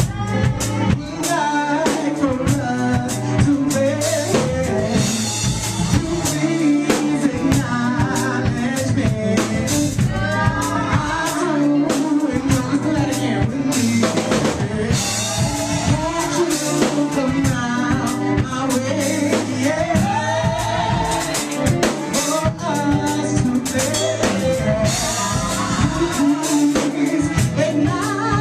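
Live funk and soul band playing a song: a drum kit with snare and bass drum keeping a steady beat under a bass line, with a singing voice over it.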